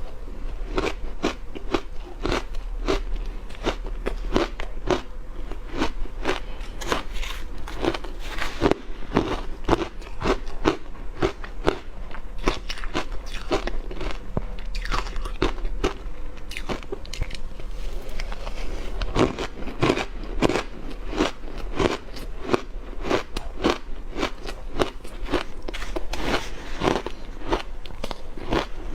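Close-miked crunching of hard frozen ice being bitten and chewed, a rapid run of sharp crunches several a second, without a break.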